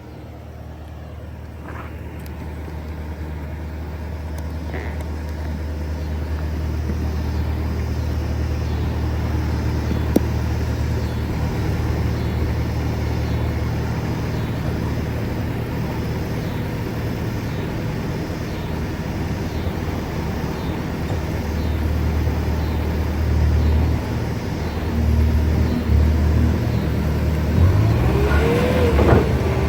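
Bobcat S650 skid steer's diesel engine running steadily while the machine is worked, growing louder over the first several seconds. Near the end the note becomes uneven, with short rising and falling tones as the machine comes under load.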